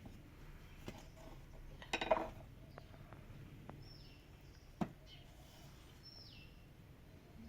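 A few sharp knocks and clinks, the loudest about two seconds in and another near five seconds, over a quiet outdoor background, while a bird gives two short calls that slide downward in pitch.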